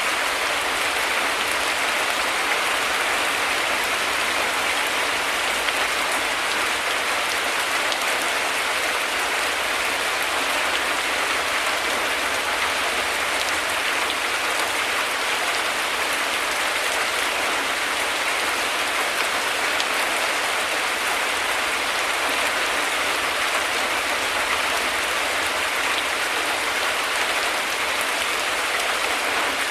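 Heavy rain falling as a steady, even hiss of dense drops.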